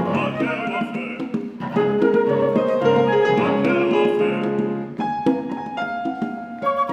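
Contemporary chamber music for piano, flute, cello and congas, with piano to the fore over bowed cello. About five seconds in, the dense texture thins to a few separate struck notes.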